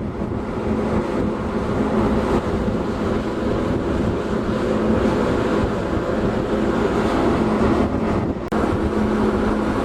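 Steady engine drone with a constant low hum, under wind on the microphone, with a brief break a little past eight seconds in.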